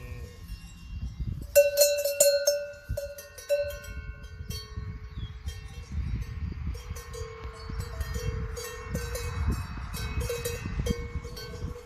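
Cowbells on cattle clanking irregularly, the ringing strikes loudest about two seconds in, over a low rumble.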